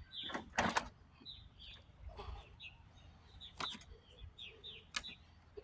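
Small birds chirping in short repeated calls, with three sharp clicks: about half a second in, near four seconds and near five seconds. No engine is running.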